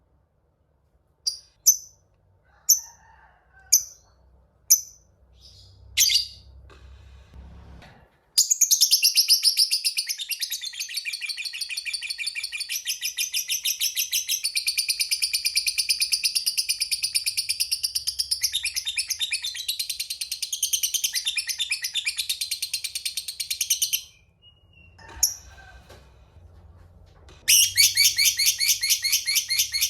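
Lovebird calling: about six sharp single chirps roughly a second apart, then a long, rapid trilling chatter, the prized 'ngekek panjang' (long ngekek), running about fifteen seconds. After a short pause and one more chirp, the fast trill starts again near the end.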